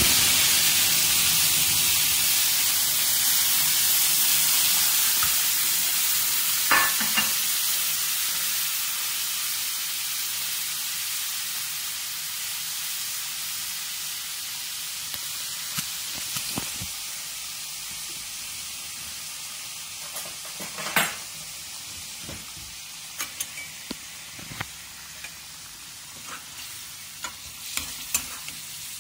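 Marinated mushrooms in a tomato-onion masala sizzling in hot oil in a metal kadai: a high hiss that starts suddenly as the mixture goes in and slowly dies down as it cooks. A spoon clinks and scrapes against the pan a few times.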